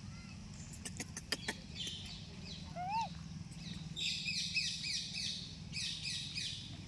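Birds chirping: a fast run of short falling chirps from about four seconds in, after a few sharp clicks and a single rising-and-falling call. A low steady hum runs underneath.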